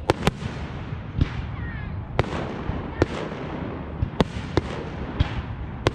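Fireworks display: aerial shells bursting with sharp bangs at uneven intervals, about seven in six seconds, two in quick succession at the start.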